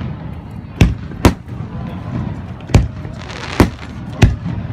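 Aerial fireworks shells bursting: five sharp bangs at uneven intervals, with a short burst of crackling a little after halfway through.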